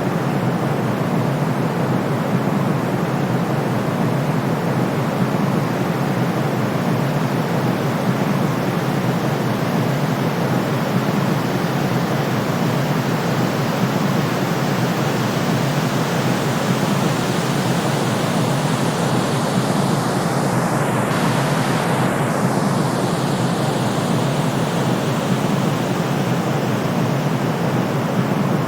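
Steady, even hiss of synthesized white noise, weighted toward the low end like pink noise, made for soothing a colicky baby. About twenty seconds in, its tone sweeps briefly down and back up.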